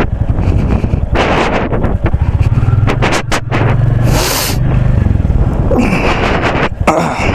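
Royal Enfield Bullet motorcycle engine running, a low uneven rumble, with a short hiss about four seconds in.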